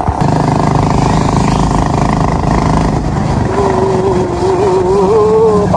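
Motorcycle engine running steadily. In the second half a long, wavering voice sounds over it.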